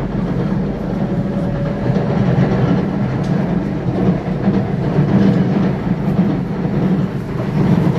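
SSR freight train's wagons rolling past at close range: a loud, steady rumble of steel wheels on the rails with occasional clacks.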